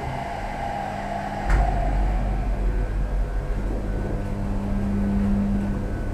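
Thyssen hydraulic lift's pump motor starting with a click about a second and a half in, then running with a steady low hum.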